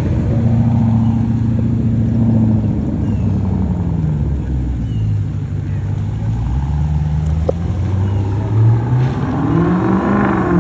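Car engine running, its pitch sagging and climbing as it is revved, with a rev climbing near the end.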